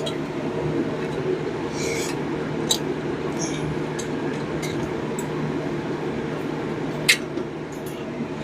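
A steady low hum with scattered light clicks and rubbing, and one sharper clink about seven seconds in: tools and parts being handled in a garage.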